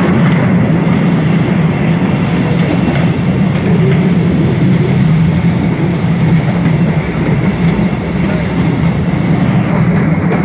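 Postojna Cave tourist train running steadily, heard from a seat in one of its open passenger cars: a loud, unbroken low rumble of the wheels and running gear on the track.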